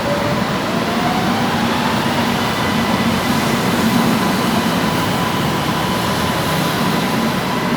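Steady hum and rush of an underground metro station platform, its ventilation running, with a faint high steady tone. A faint whine rises in pitch over the first two seconds or so.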